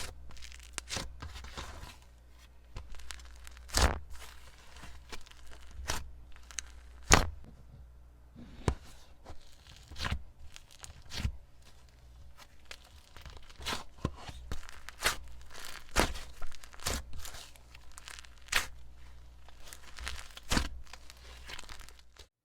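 Hands stretching and pressing a soft clay slime: crackling tearing sounds with sharp pops scattered at irregular intervals.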